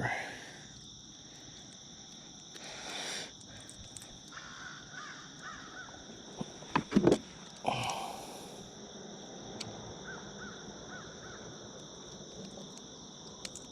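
Steady chorus of insects holding two high, even tones, broken by a few brief harsh sounds and sharp clicks about three seconds in and again around seven to eight seconds.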